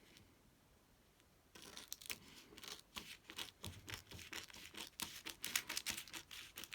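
Paper being handled, crinkling and rustling in quick irregular strokes that start about a second and a half in.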